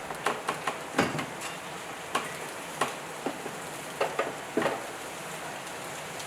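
Scattered light clicks and clinks, like small metal parts and tools being handled, over a steady hiss.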